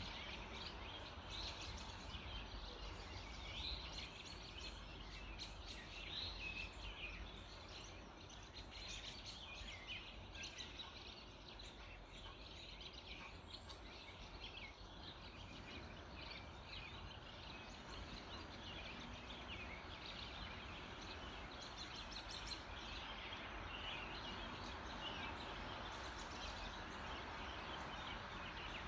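Early-morning chorus of many small birds, a dense run of short overlapping chirps and trills, over a steady background hiss and low rumble.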